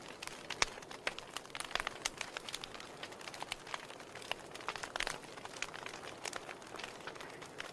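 Wood fire burning in a fireplace, crackling with irregular sharp pops and snaps of the burning firewood over a soft steady hiss.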